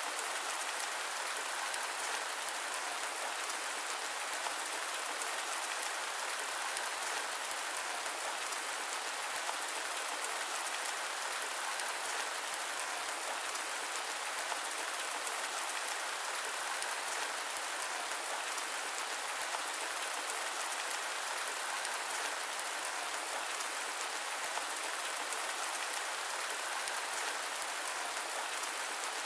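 Steady rain falling on a surface, an even hiss of many drops with no thunder, its lowest tones cut away.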